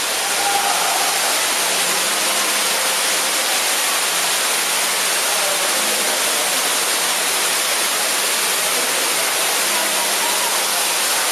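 Steady rush of falling water from the underground waterfall at Ruby Falls, a constant hiss with no breaks.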